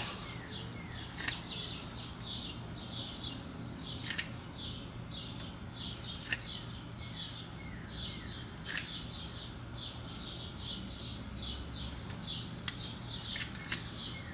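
Birds chirping, short falling chirps repeated a few times a second, with a few sharp clicks scattered through.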